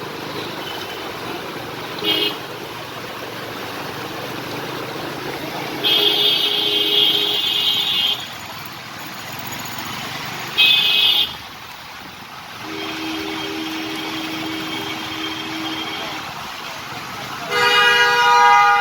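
Vehicle horns honking over steady traffic noise: a short toot about two seconds in, a two-second blast around six seconds, another short toot near eleven seconds, a fainter horn of a different pitch for about three seconds after that, and a loud blast near the end.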